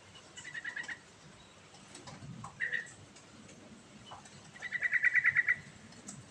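Yellow-vented bulbul (trucukan) singing: two rapid stuttering trills, a short one near the start and a longer, louder one near the end, with a single short note between them.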